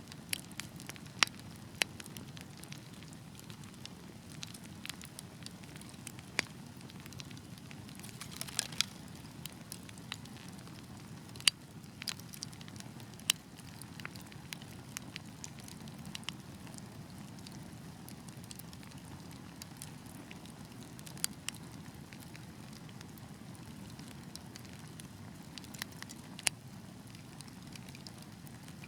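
Wood fire burning, a steady low rumble with irregular crackles and occasional sharp pops of the logs, a brief flurry of crackling about a third of the way in.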